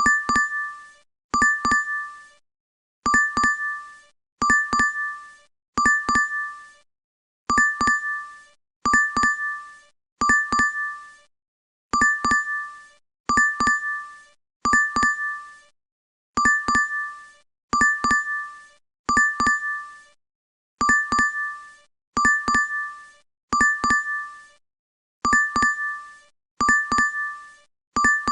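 DoorDash app notification chime repeating over and over: a quick double-struck ding with two ringing tones that fade within a second, sounding in groups of three about every 1.3 seconds.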